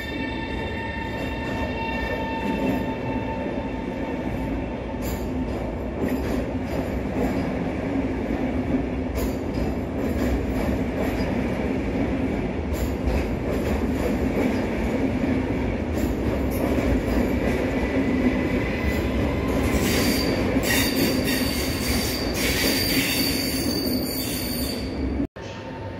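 PKP Intercity Pendolino (ED250) electric train pulling out along the platform, a steady rumble of wheels on rail with a whine of level tones over it. Wheel squeal joins in for a few seconds near the end.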